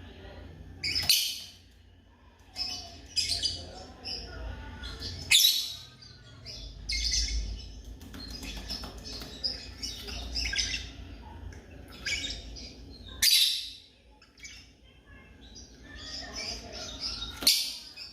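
Lovebirds chirping and calling in a steady stream of high, shrill chirps. Four loud, sharp calls stand out above the rest.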